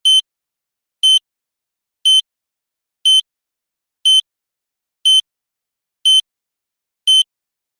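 Electronic beeping: eight identical short, high beeps, one each second, with dead silence between them.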